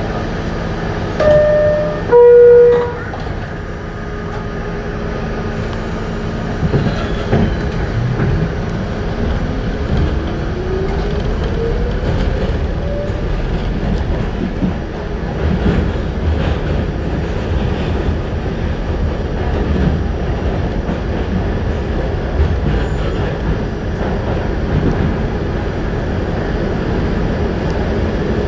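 R68 subway car interior: two short pitched tones, the second lower, louder and longer, then the train getting under way, its motor whine rising in pitch over about five seconds beneath steady wheel and running noise.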